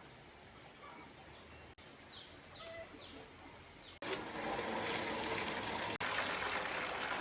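Quiet ambience with a few faint bird chirps, then, after an abrupt cut about four seconds in, a much louder steady rush of running water.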